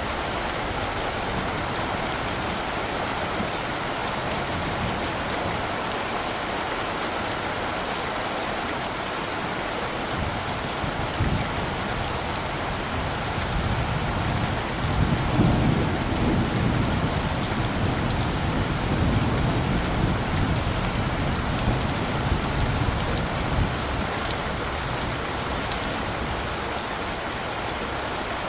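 Steady rain falling, with scattered drops ticking close by. About halfway through, a low roll of distant thunder rumbles for several seconds and fades.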